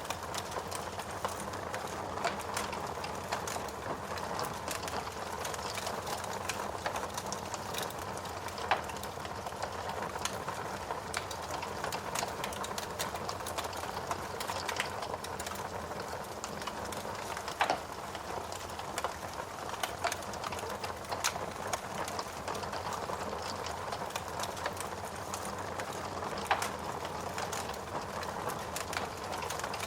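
Wood fire burning in a fireplace: a steady hiss and rustle of flames with many small irregular crackles and an occasional louder pop from the burning logs.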